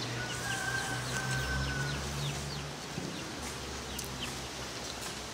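Birds chirping in quick, short falling calls, with a clearer whistled note held for about a second and a half near the start, over a low steady hum.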